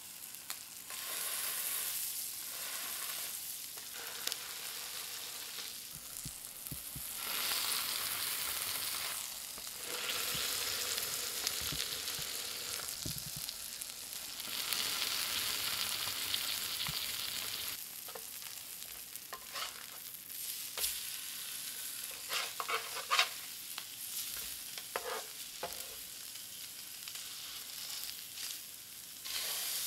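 Trout fillets frying in butter, a steady sizzle that swells and eases every few seconds. A few light clicks come in the second half.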